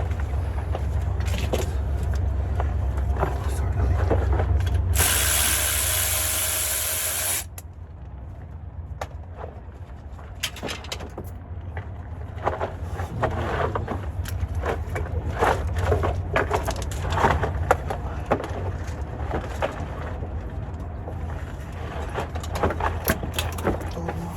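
A loud hissing spray lasting about two seconds, about five seconds in, over a steady low hum that drops away when the spray stops; then scattered clicks and clanks of hand tools on metal.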